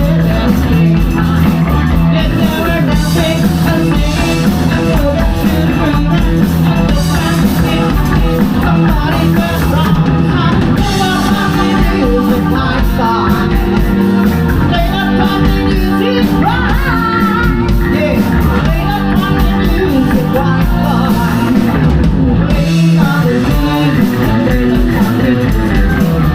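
Rock band playing live: drum kit, electric guitar and bass, with singing.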